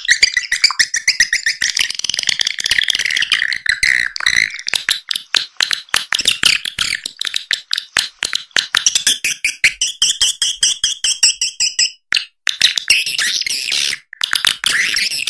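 Swiftlet call-lure recording: dense, rapid, high-pitched chittering twitters of white-nest swiftlets, the sound played through tweeters to draw swiftlets into a nesting house. It breaks off briefly twice near the end.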